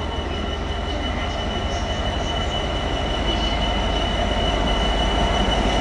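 GB Railfreight Class 66 diesel freight train drawing slowly into the platform: a low rumble with a steady high-pitched squeal, growing gradually louder.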